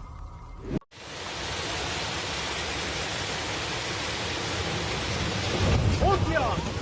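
Steady roar of storm-force wind and driving rain, starting abruptly about a second in. A person's voice cries out briefly near the end.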